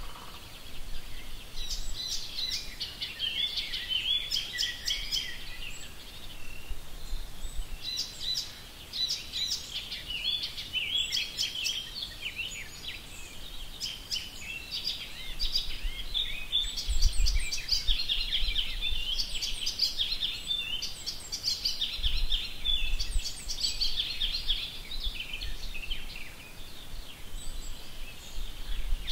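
Birds singing: a dense, continuous run of high chirps and short trills, with a couple of brief low rumbles near the middle.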